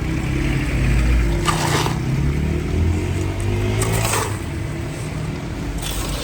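A motor vehicle's engine running close by in street traffic, its note dropping about two thirds of the way in, with two short hissing sounds over it.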